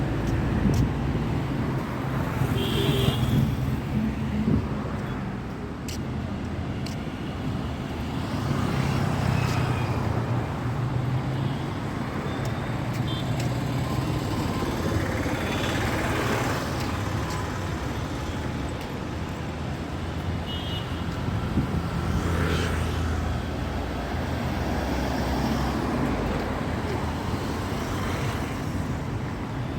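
Busy road traffic: engines running and vehicles passing close by, two of them swelling up and fading about halfway through and a little later. A few brief high beeps sound at intervals over the rumble.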